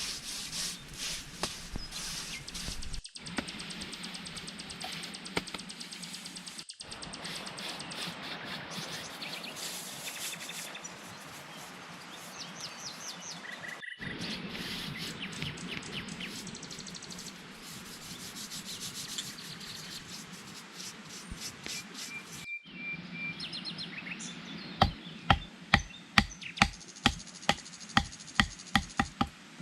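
Forest work sounds cut together: rubbing and scraping with birds chirping and insects, then near the end a quick run of about a dozen loud strikes, roughly three a second, of a tool striking.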